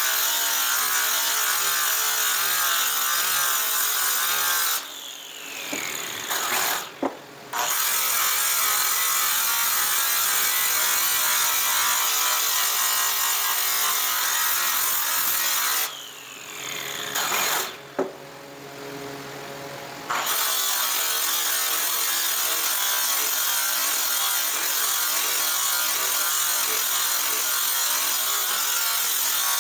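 Electric power tool running at steady high speed. It is switched off twice, about five and sixteen seconds in, winding down with a falling whine, and each time starts up again a couple of seconds later.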